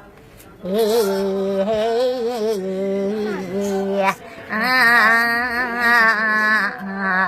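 An elderly woman singing a traditional Iraqi song in two long phrases of drawn-out, wavering notes. The first phrase begins a little under a second in; the second begins about four seconds in.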